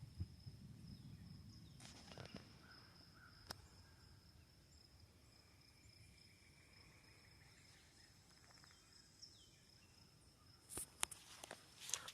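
Quiet outdoor ambience under a faint steady high-pitched tone, with a faint low rumble at first, single soft clicks about two and three and a half seconds in, and a quick cluster of sharper clicks and knocks near the end.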